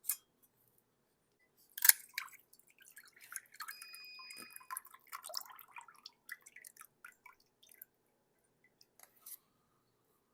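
A can of artichoke hearts being drained of its brine: a sharp metallic click, then liquid pouring out for a few seconds, followed by scattered drips and small clinks.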